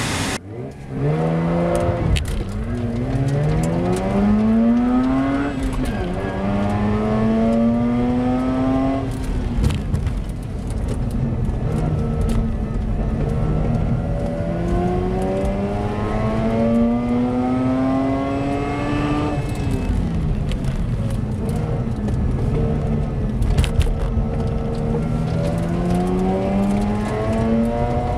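Mazda RX-8's twin-rotor Wankel rotary engine, heard from inside the cabin, pulling away from a standing start and driven hard through the gears. Its pitch climbs in each gear and drops at each change, with deeper dips about ten and twenty seconds in where it comes off the throttle, then climbs again.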